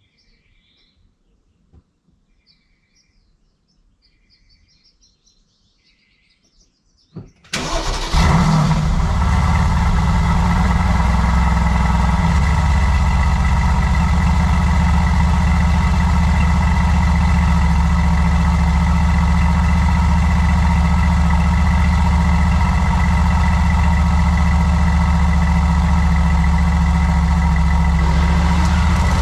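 Faint bird chirps, then about seven seconds in a Mercedes-AMG GT's 4.0-litre twin-turbo V8 on its stock exhaust is cold-started. It catches after a brief crank and settles at once into a loud, steady cold idle.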